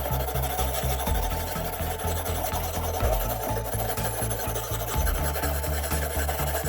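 Quick repeated rasping, scraping strokes of hand work on a model car, over background music with a steady beat.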